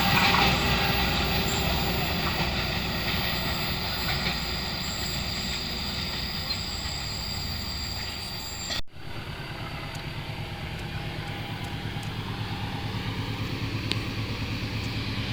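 Passenger train running on the rails and fading as it moves away. About 9 s in the sound cuts abruptly to a steady low rumble with a quick, even pulsing that slowly grows louder.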